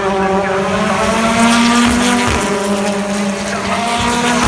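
British Touring Cars' two-litre turbocharged four-cylinder engines running past on track, several engine notes overlapping and sliding up and down in pitch as the cars go by.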